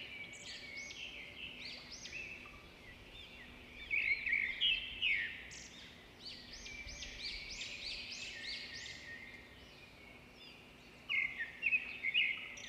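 Small birds chirping in quick clusters of short rising-and-falling notes, with brief pauses between the clusters. A faint steady hum runs underneath.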